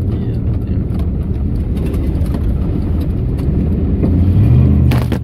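Jeep running down the road, heard from inside the cabin as a steady low engine and road rumble. It grows louder about four seconds in, and a sharp knock comes just before the end.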